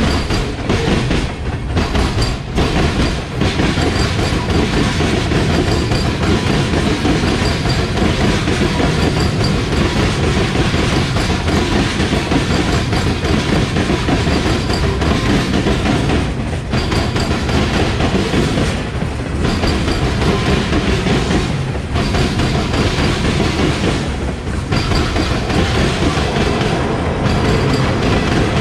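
Freight train cars, refrigerated boxcars and then tank cars, rolling past close by: steel wheels clicking and clacking over the rail joints in a loud, steady rumble.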